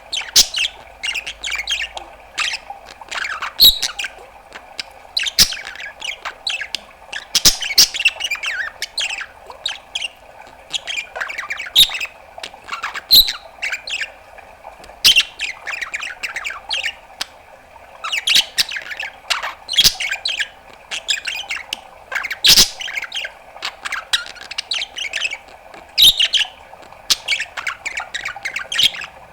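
Budgerigar chattering without a break: a rapid run of short chirps, squawks and clicks.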